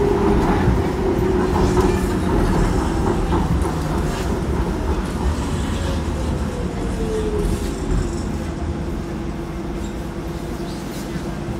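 Docklands Light Railway train running, heard from inside the carriage: a steady rumble of wheels on track with occasional light clicks. About six seconds in a motor whine falls in pitch as the train slows.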